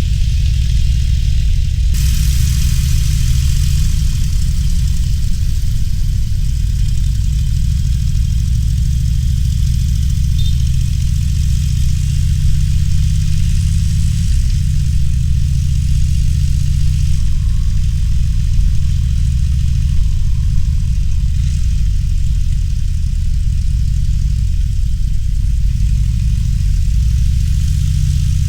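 Harley-Davidson Roadster's V-twin engine running with a deep, steady low rumble as the motorcycle rides through town, its pitch shifting slightly with the throttle. A hiss of wind and road noise comes in about two seconds in.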